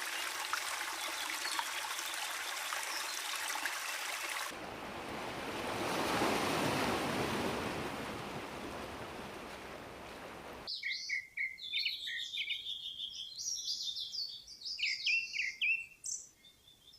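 Three nature recordings edited one after another. First, a steady patter of rain or trickling water with small drips. Then a rushing sound of water that swells and fades. Then, from about eleven seconds in, many small birds chirping and twittering.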